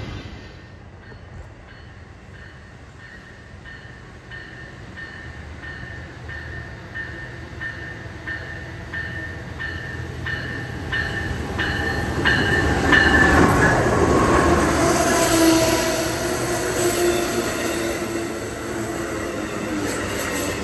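A train passing close by, rumbling, and growing much louder about twelve seconds in, with steady tones over the noise. A regular ringing at about two strokes a second runs through the first half and stops as the train gets loud.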